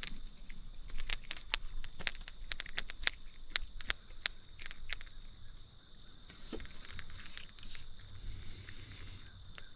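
Scattered light clicks and rustles, about one every half second, over a steady high-pitched insect chorus.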